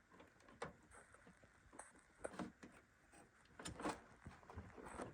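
Faint scattered clicks and taps of a small cable connector being handled and pushed onto a USB header on a PC motherboard.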